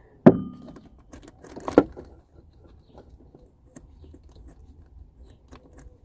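Small clicks and rattles of tools and parts being handled, with a sharp knock just after the start and another about two seconds in.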